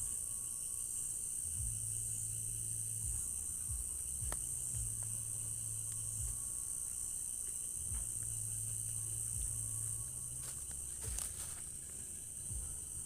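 A steady, high-pitched chorus of crickets and other night insects, with a few faint clicks and an on-and-off low rumble underneath.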